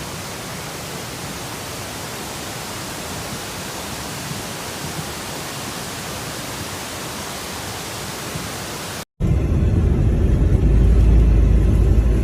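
Steady, even hiss of a rainstorm, cutting off abruptly about nine seconds in. Then a louder, heavy low rumble of wind buffeting the microphone.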